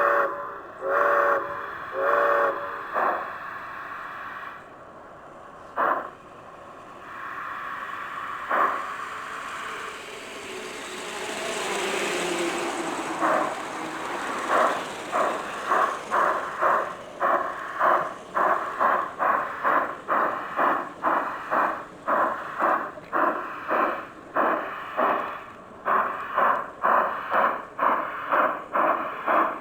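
G-scale model steam locomotive's sound system: three short whistle toots, then a few slow, widely spaced chuffs and a hiss of steam, settling into a steady chuff of about two beats a second as the train gets under way.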